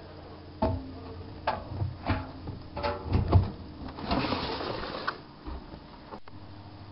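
Bauknecht WAK7751 front-loading washing machine running its wash cycle: irregular knocks and clunks as the drum turns the laundry over a steady low hum, with a short rush of noise about four seconds in. The owner reports that the drum bearing is slowly starting to fail.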